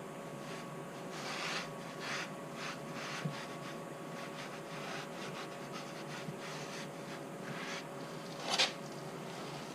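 Rags wiping and rubbing at spilled engine oil on a concrete floor: irregular short rubbing strokes, with one brief, louder swipe near the end, over a steady background hum.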